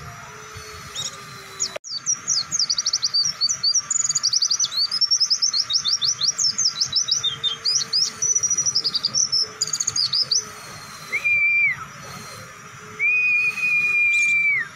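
Pleci (white-eye) singing a long, rapid burst of high, quick chirps, the 'ngebren' or long-shooting song used as training material. Near the end come two long flat whistled notes.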